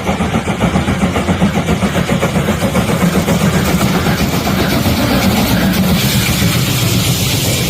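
Loud vehicle engine sound running steadily with a quick, pulsing rumble, cutting off abruptly just after the end.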